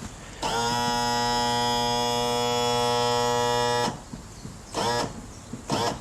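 A small electric motor buzzes steadily for about three and a half seconds, rising briefly in pitch as it starts and cutting off sharply. Two short chirps follow near the end.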